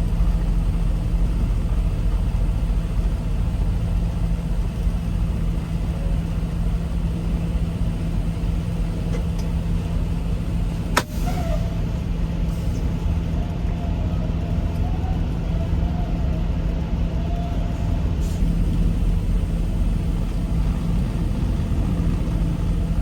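Semi truck's diesel engine running with a steady low rumble, with one sharp click about halfway through.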